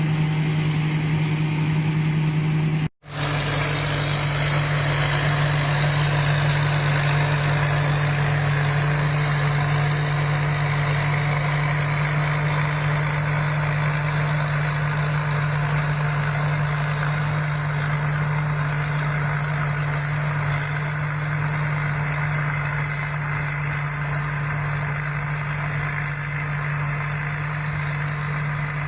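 Rice combine harvester's engine running steadily, a deep even drone with a thin high whine above it; the sound drops out for an instant about three seconds in.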